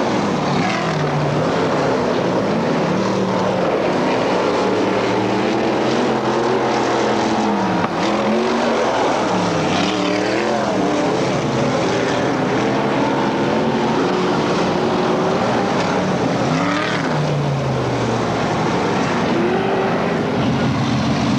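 Several race car engines running hard, overlapping, their pitch rising and falling again and again as the cars accelerate and lift off.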